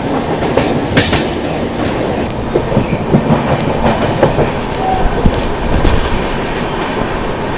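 Express passenger train running, heard from an open coach door: a steady rumble of wheels on rail with clickety-clack and sharp clicks as the coaches run over rail joints and points.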